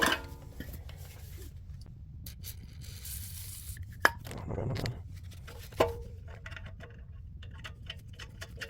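Small metal parts and hand tools being handled while exhaust studs are fitted: scattered clinks and light scraping, with a brief hiss about three seconds in, sharp metallic clinks about four and six seconds in, and a run of small rapid ticks in the last few seconds.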